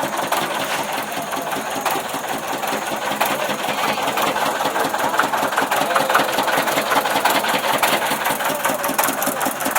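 A long string of firecrackers crackling off in a fast, unbroken rattle of small bangs.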